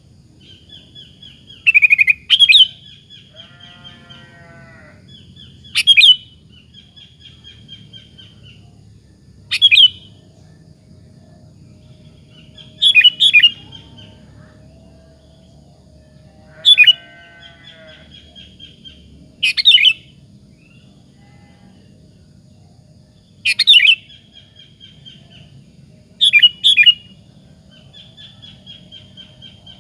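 Sooty-headed bulbul (kutilang) singing: a loud, short whistled phrase every three to four seconds, eight in all, with softer twittering chatter in between.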